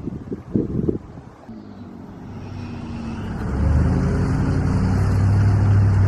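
A few knocks, then an engine that grows louder over a couple of seconds and runs steadily with a low hum.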